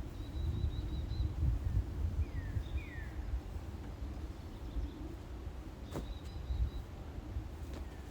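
A bird singing: a held high whistle, then two quick downslurred whistles, and the high whistle again near the end, over a low rumbling noise. A single sharp click comes about six seconds in.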